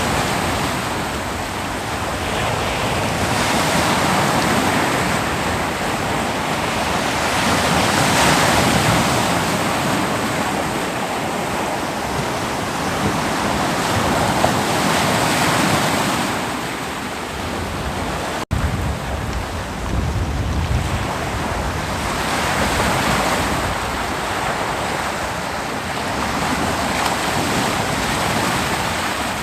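Ocean waves breaking on a beach: a continuous wash of surf that swells and eases every few seconds. There is a sudden, very brief break in the sound about two-thirds of the way through.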